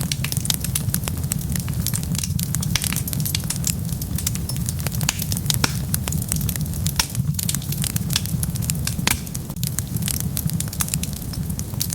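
Wood fire burning, with a steady low rumble of the flames and frequent sharp crackles and pops of the burning wood, several a second.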